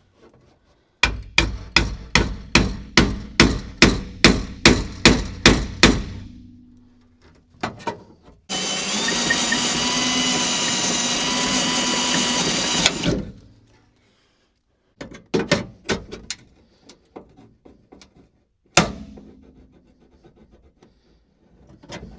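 Hammer blows on sheet-metal car body panels, about three a second for some five seconds, knocking a spot-welded panel loose. A power tool then runs steadily for about four seconds, followed by a few scattered knocks.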